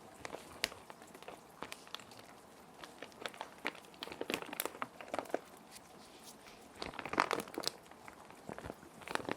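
Plastic sheet protectors crinkling and rustling in irregular crackles as paper sheets are slid into them, heaviest about seven seconds in, over a steady hiss of rain.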